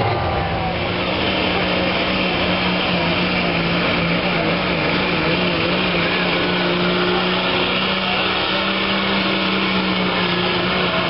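Competition pulling truck's engine held at full throttle and high, steady revs as it pulls the sled down the track.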